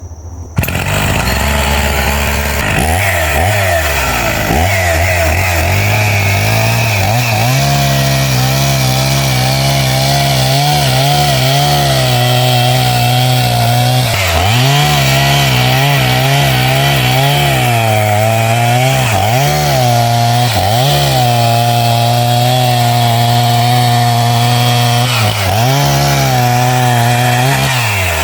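Two-stroke chainsaw running at high revs, cutting wood; it comes in loudly about half a second in, and its engine note dips briefly many times before recovering.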